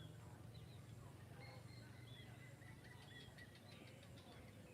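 Faint chorus of birds chirping at dusk, with a held high note through the middle and a quick trill of ticks a little past halfway, over a low steady hum.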